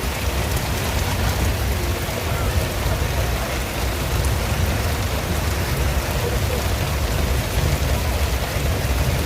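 Torrential rain pouring steadily, with a constant low rumble underneath.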